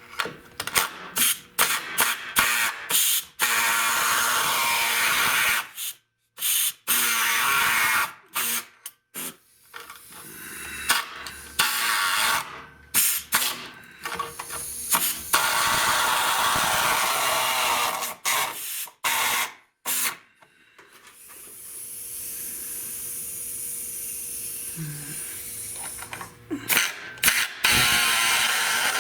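A handheld power tool run in short, stop-start bursts on sheet-metal bodywork. Each run cuts off abruptly, with a steadier, quieter stretch near the end.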